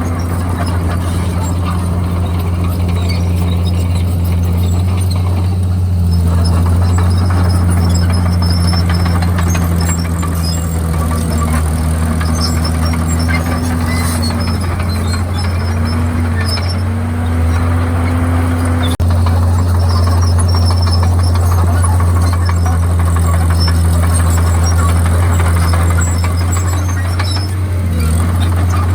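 Komatsu D51PX crawler bulldozer's diesel engine running steadily with a deep drone, with a wavering squeal over it in the middle stretch, typical of steel crawler tracks. A short click about two-thirds of the way in.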